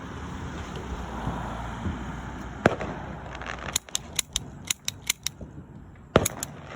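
Fireworks going off: a sharp bang, then a rapid run of about ten crackling pops, then another sharp bang followed by a few more pops.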